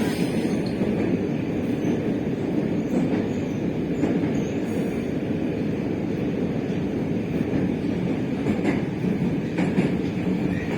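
Moscow metro train running between stations, heard from inside the carriage: a steady rumble of wheels on rails with a few faint knocks from the wheels over rail joints.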